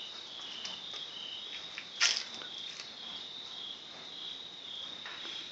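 Crickets chirping steadily, a high trill pulsing about twice a second, with one sharp noise about two seconds in.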